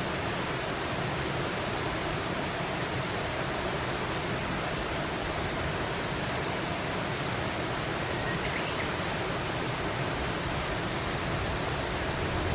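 Steady rushing of flowing water, with one faint short chirp about two-thirds of the way through.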